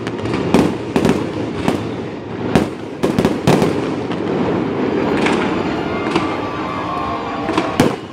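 Fireworks display: a rapid run of sharp bangs from aerial shells bursting overhead, then a steadier stretch of crackling, and one more loud bang near the end.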